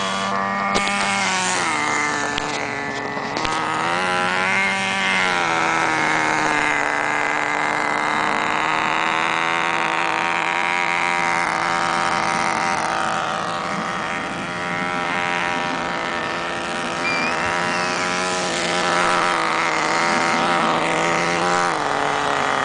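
Small electric RC helicopter's motor and spinning rotors whining steadily, the pitch rising and falling several times with throttle changes and dropping near the end.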